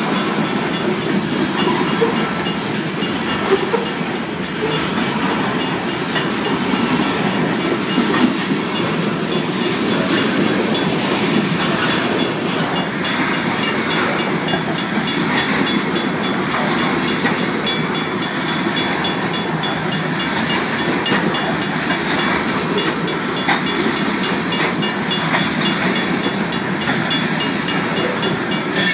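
Covered hopper cars of a Union Pacific grain train rolling past at a level crossing: a steady rumble of steel wheels on rail with clickety-clack over the joints. The crossing's mechanical bell keeps ringing behind it.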